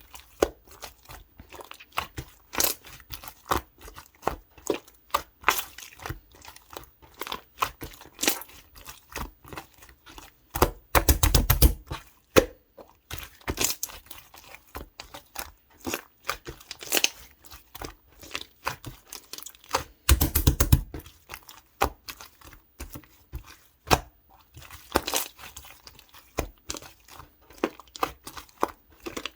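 Clear slime packed with foam beads being squeezed and pressed by hand. It gives off many quick crunching crackles and sticky pops, with two louder, denser bursts of crunching about eleven and twenty seconds in.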